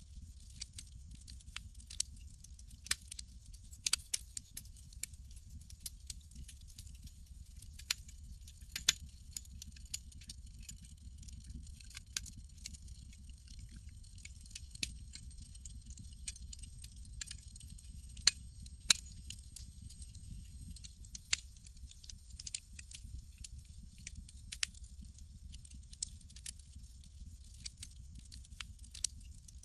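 Campfire crackling: irregular sharp pops and snaps, a few louder than the rest, over a low steady rumble.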